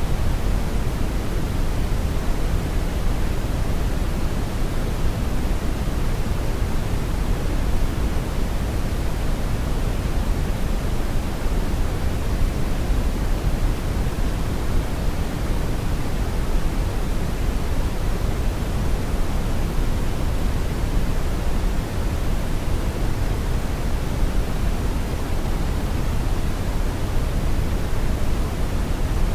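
Brown noise: a steady, even rumbling hiss, strongest in the low end and fading toward the top, with no changes or events.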